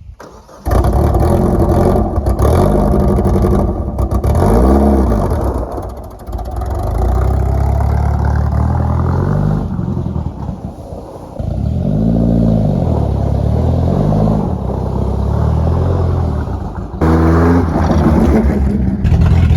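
Cummins diesel engine in a 1969 Dodge D200 running and being revved several times, each rev climbing and falling back, with abrupt jumps in the sound where clips are cut together.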